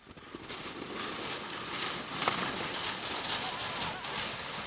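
A sled sliding down over crusted snow: a steady crackling hiss that builds over the first second and then holds.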